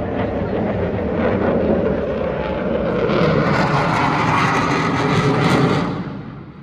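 Airplane passing close overhead, its engine noise swelling to its loudest, then falling away quickly near the end.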